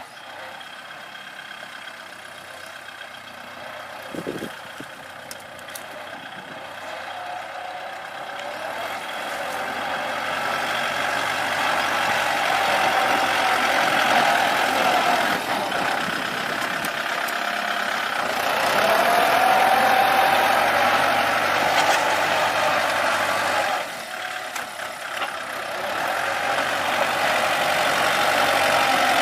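Kubota L4708 tractor's diesel engine running steadily, growing louder through the first half and dipping briefly about four-fifths of the way through.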